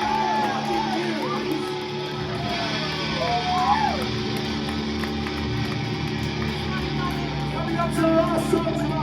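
Live band between songs: electric guitar and amplifiers sounding over a steady low hum, with voices shouting from the crowd.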